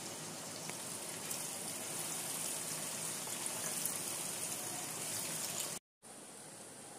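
Sliced onions and cumin seeds sizzling steadily in hot oil in a nonstick kadai as they fry. The sizzle breaks off for a moment near the end and comes back quieter.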